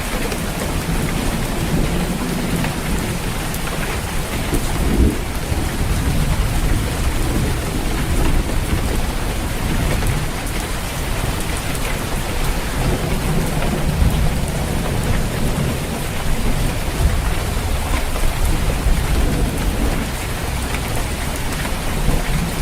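Steady heavy rain drumming on a roof, with rolling thunder rumbling low underneath, swelling and fading over several seconds.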